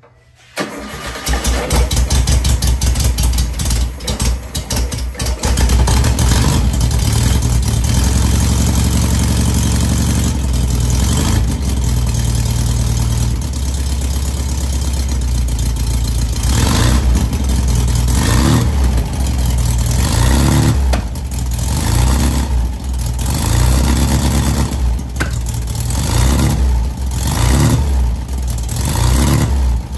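Freshly rebuilt 1970 VW Beetle air-cooled flat-four engine catching about half a second in and running steadily. From about halfway it is revved in repeated short blips, each rising and falling in pitch.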